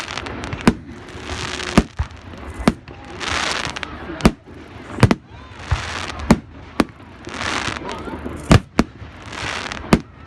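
Fireworks going off: a dozen or so sharp bangs at irregular intervals, some in quick pairs, between longer crackling, hissing bursts.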